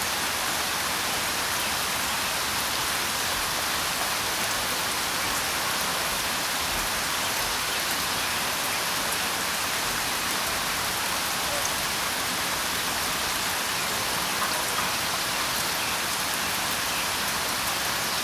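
Steady rain falling: an even, unbroken hiss of drops that keeps the same level throughout.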